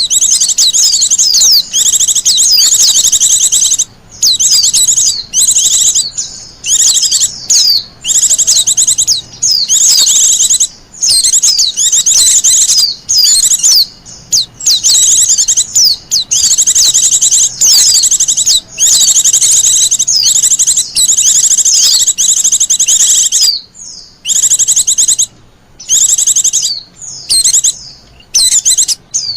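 Wild white-eye (pleci) singing a loud, fast, high twittering song in rapid runs of notes, broken by short pauses, with a few longer gaps near the end.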